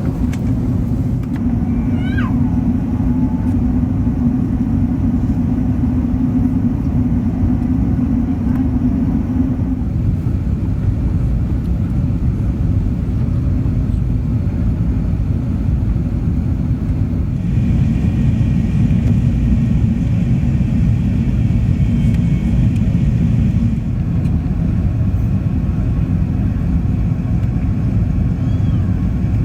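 Steady low rumble of an Airbus A380's passenger cabin on the way down to land, engine and airflow noise, with a higher hiss joining for about six seconds past the middle.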